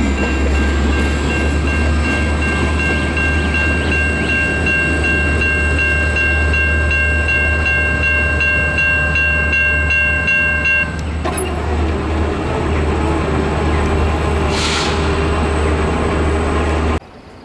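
Diesel-hauled BNSF freight train rolling past at a level crossing, with a strong low rumble throughout. A steady high-pitched ringing tone, like several notes held at once, sounds over it and cuts off suddenly about eleven seconds in; a brief hiss comes near fifteen seconds.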